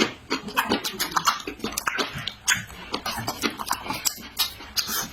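A person eating close to the microphone: chewing and mouth noises made up of a quick, irregular run of sharp clicks.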